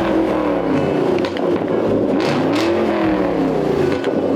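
2014 Ford Shelby GT500's supercharged 5.8-litre V8 being revved, its pitch falling, climbing to a peak a little past halfway, dropping, then rising again near the end.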